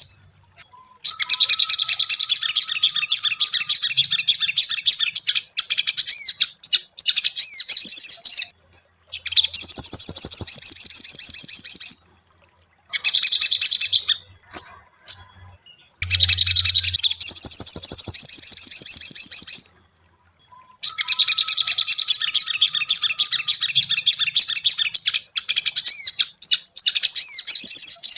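Ruby-cheeked sunbird (sogon) singing loud bouts of rapid, high-pitched chirping and twittering. The bouts last a few seconds each, with short pauses between them.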